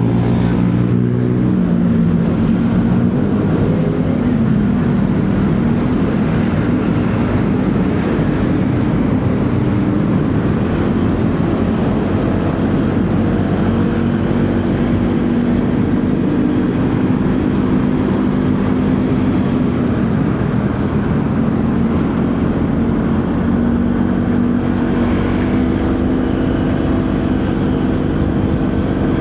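Motorcycle engine running while riding along a city road, its pitch drifting gently up and down, with wind rush and the noise of surrounding traffic.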